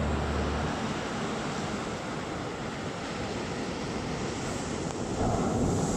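Sea surf washing on the shore, a steady rushing noise, with wind on the microphone. A low hum stops under a second in.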